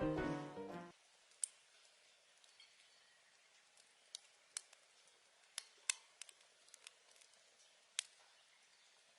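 Background music fading out, then a wood fire crackling quietly: a dozen or so scattered sharp pops over a faint hiss.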